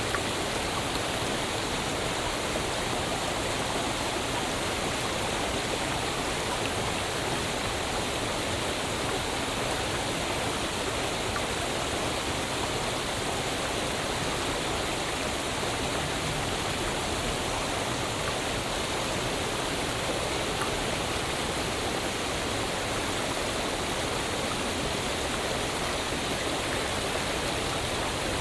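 Waterfall: water falling and rushing in a steady, even hiss that never changes.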